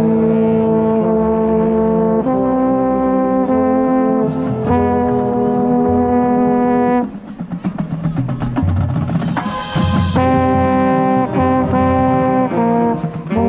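Marching band brass playing held chords over drums, with a low brass horn right at the microphone. About seven seconds in the horns drop out for a couple of seconds, leaving the drums, then come back in loud.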